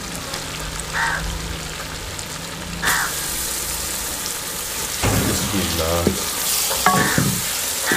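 Boneless chicken pieces frying in hot oil and masala in an aluminium karahi, sizzling as they go in and louder about three seconds in, while a wooden spatula stirs them through the pan.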